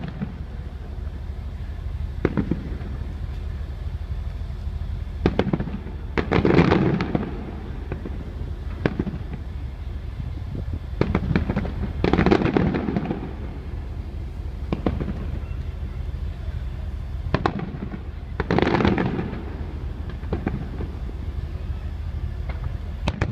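Aerial fireworks shells bursting in sharp bangs every few seconds. Three longer, rolling bursts of about a second each come roughly six seconds apart, over a steady low rumble.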